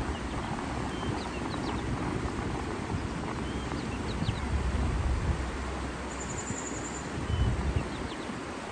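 Outdoor nature ambience: steady rumbling noise, with wind on the microphone, and faint scattered bird chirps. A short high trill about six seconds in.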